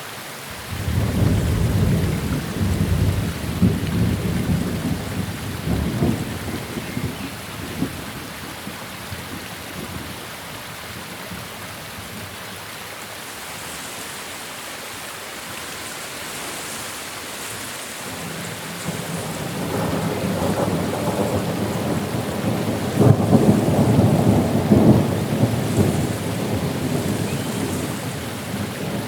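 Steady rain with two long rolls of thunder. The first starts about a second in and dies away over several seconds; the second, louder one builds about two-thirds of the way through and fades near the end.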